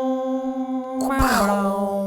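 A person's voice holding a long, steady sung note that slides down to a lower note about a second in, a mouth-made imitation of a film trailer's musical score.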